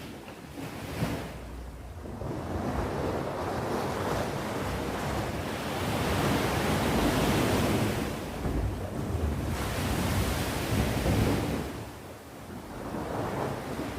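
Sea waves breaking and washing on the shore, a steady rush of surf that swells and ebbs, with a build over several seconds, another surge about ten seconds in, and a brief lull near the end.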